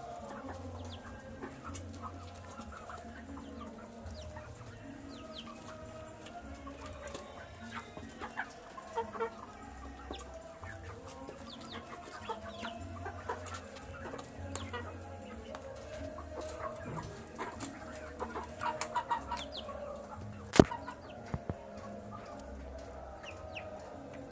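Young chickens calling while they feed, with many small clicks and taps throughout and one sharp knock about twenty seconds in.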